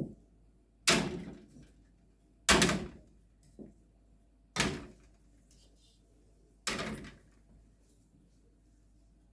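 Quart canning jars set down one after another on the rack of a steam canner: four loud glassy clunks about two seconds apart and a lighter one between them, each ringing briefly.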